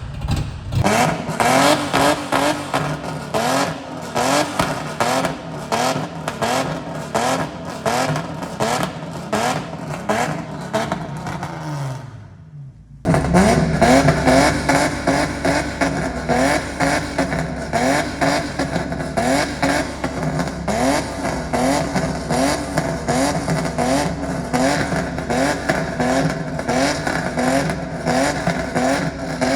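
Skid ute's engine, fitted with custom twin throttle bodies, revving hard over and over, its pitch climbing about once a second. About twelve seconds in the revs fall away and the sound cuts out for a moment, then the hard revving starts again.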